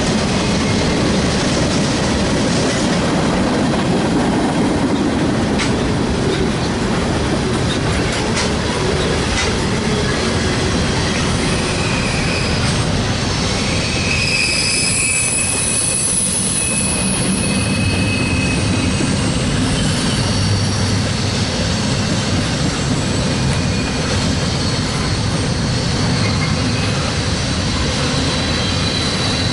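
Railroad cars rolling steadily past on the track. High-pitched wheel squeal rises about halfway through and fades a few seconds later.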